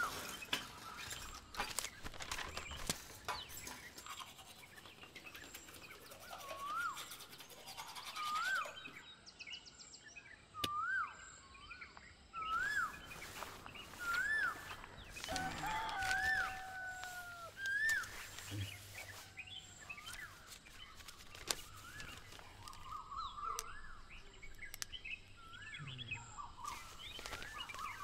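Birds calling: a short whistled note that rises and falls, repeated about once a second through the middle stretch, a longer falling whistle about sixteen seconds in, and a quick run of chirps near the end. Scattered scratchy clicks run underneath.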